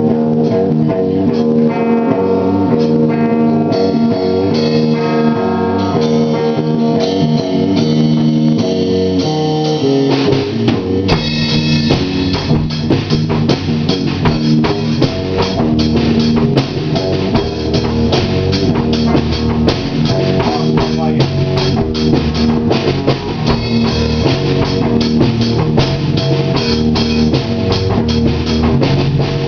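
Stoner rock band music: guitars playing, with the full drum kit and bass coming in about eleven seconds in.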